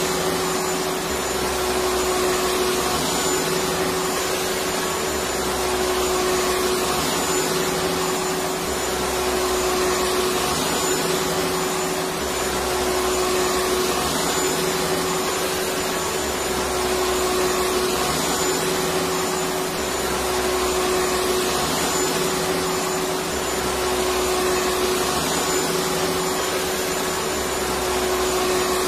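Vacuum cleaner motor running continuously with a steady whine over a rushing airflow noise. The low hum swells and eases gently every few seconds.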